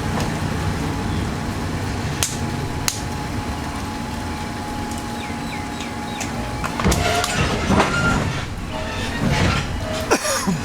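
Train carriage at standstill: a steady low rumble of the train's engine with a hum, and two sharp knocks about two and three seconds in. The hum cuts out about seven seconds in, followed by irregular clatter and knocks.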